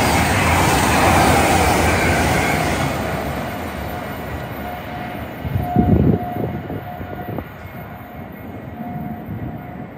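A train passing through the station, loud at first and fading away from about three seconds in. A short low rumble comes about six seconds in.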